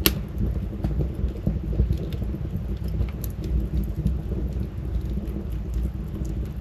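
Wood fire burning in a fireplace: a steady low rumble of flames with scattered crackles and pops from the logs, one sharp pop right at the start.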